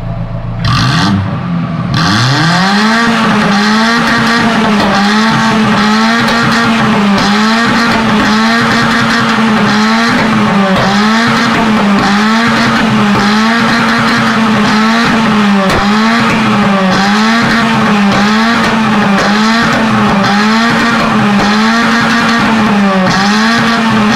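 Fiat Cinquecento engine revved through its exhaust: a quick blip about a second in, then held at high revs with a regular rise and fall in pitch about once a second, starting to drop at the very end.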